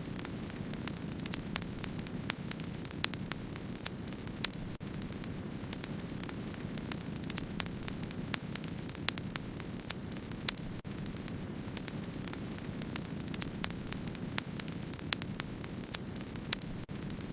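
Wood-burning campfire crackling: a steady low rushing bed with frequent sharp crackles and occasional louder pops scattered irregularly.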